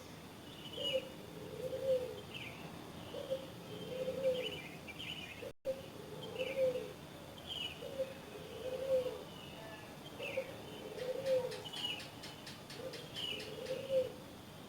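A dove cooing over and over, each phrase a short low note followed by a longer wavering one, with smaller birds giving short high chirps alongside. The audio cuts out for an instant about five and a half seconds in.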